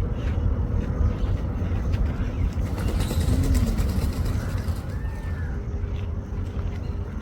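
A steady low rumble, with a faint short rising-and-falling call about three and five seconds in.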